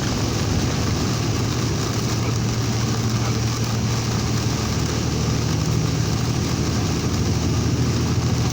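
Vehicle engine droning steadily in the cab while driving through heavy rain, under a constant hiss of rain and road spray.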